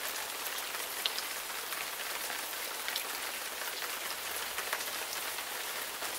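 Steady rain falling: an even hiss with scattered drops ticking close by.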